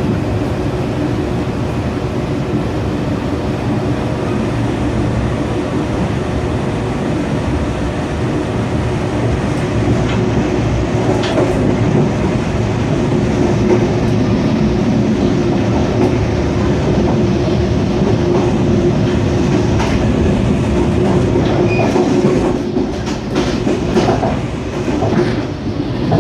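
Mugunghwa-ho passenger train running along the rails: a steady rumble of wheels on track with a low hum. A few sharp clicks come in the last few seconds.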